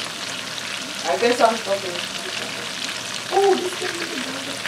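Breaded chicken cutlets shallow-frying in a skillet of oil: a steady crackling sizzle full of fine pops. A voice cuts in briefly twice, about a second in and again past three seconds.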